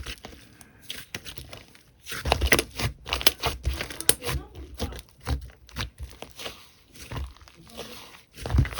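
Slime being squished and worked by hand: a quick run of sticky clicks and crackles, quieter at first and much denser and louder from about two seconds in.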